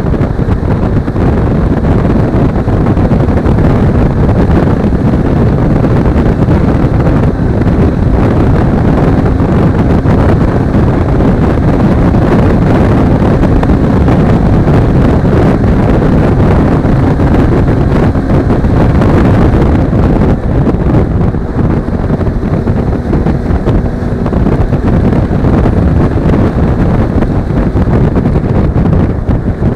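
Heavy wind rush buffeting an action camera's microphone on a moving Suzuki V-Strom 250 motorcycle, with the bike's parallel-twin engine running steadily underneath.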